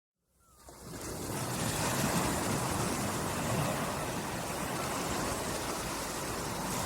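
Small waves lapping on a calm sea shore: a steady wash of surf that fades in from silence during the first second, swelling gently after that.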